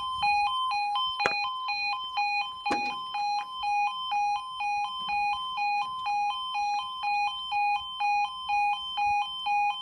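Level crossing warning alarm, an E2S sounder, sounding a two-tone yodel that alternates between two pitches about twice a second: the warning that a train is approaching and the barriers are coming down. Two short knocks about one and three seconds in.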